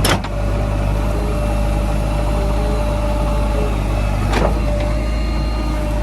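JCB 3DX backhoe loader's diesel engine running steadily, with two sharp clacks: one at the start and one about four and a half seconds in.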